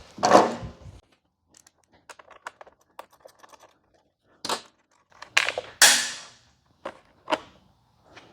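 Hand tools being handled: a socket and wrench picked up and fitted, giving a run of small light clicks, then several louder metallic knocks and clatters, the loudest about six seconds in.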